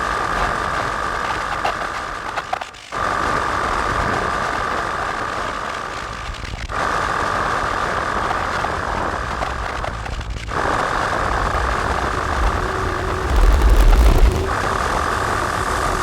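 Distorted modular-synth noise drone from Make Noise Strega, Maths and Morphagene modules through Death By Audio Evil Filter and Absolute Destruction fuzz pedals. A steady high tone rides over a harsh, grinding wash with a low rumble. The sound drops out briefly and comes back about every four seconds, and it has heavier low pulses near the end.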